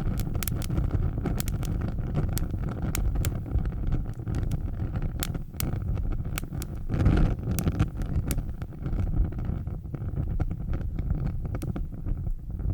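Fire burning with a steady low rumble and frequent sharp crackles and pops. The rumble swells louder about seven seconds in.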